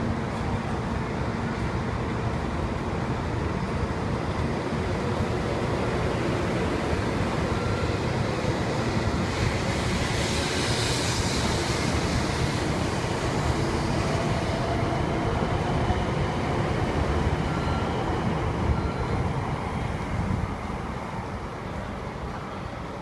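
Tokaido Shinkansen 700 Series train pulling out and picking up speed, with steady rail and running noise. A brief high hiss comes about ten seconds in, and the sound fades near the end as the train moves off.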